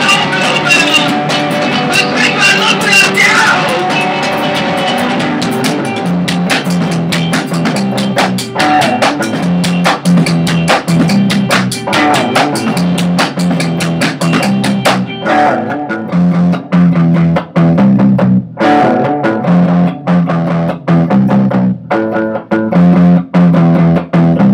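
A rock band playing in rehearsal: guitar and drum kit. About halfway through, the playing turns into stop-start hits separated by short gaps.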